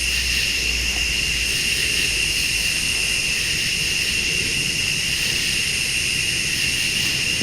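Steady chorus of crickets and late-summer insects, a continuous high trilling with its strongest pitch near 3 kHz, over a low rumble.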